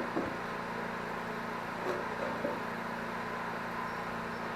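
Generator engine running at a steady speed, with a couple of faint knocks about two seconds in.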